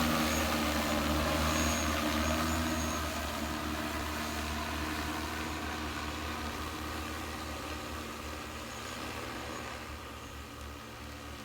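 Agricultural spray drone's rotors humming steadily, gradually fading as it moves away.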